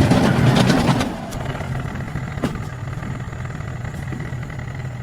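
Vehicle engine running, louder and rougher for about the first second, then settling to a steady idle.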